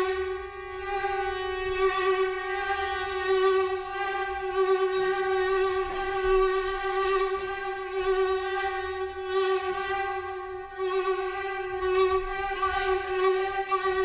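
Violin holding one unchanging note, bowed again and again every second or so, in contemporary chamber music.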